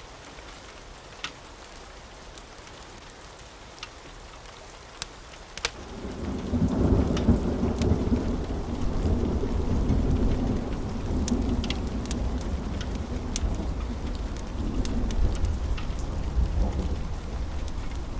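Steady rain with occasional sharp taps. About six seconds in, a long roll of thunder builds and rumbles on, becoming the loudest sound.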